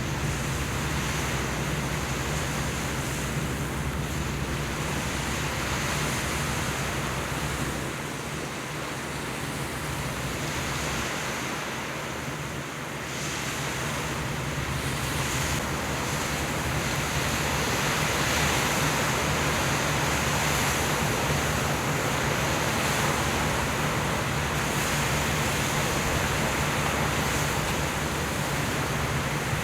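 Steady rush of wind and sea on open water, with a low, even engine hum underneath. The low rumble eases for a few seconds around the middle.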